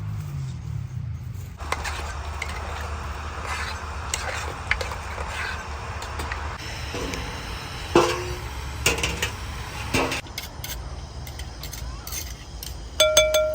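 Dishes and kitchen utensils clinking and knocking as they are handled, over a steady low hum. Near the end comes a sharp clink that rings briefly.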